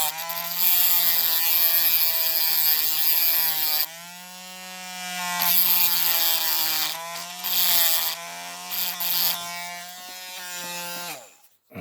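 Small rotary tool with a grinding wheel running at a steady high whine and grinding metal in loud spells, its pitch rising slightly whenever the wheel comes off the work. Near the end it is switched off and winds down.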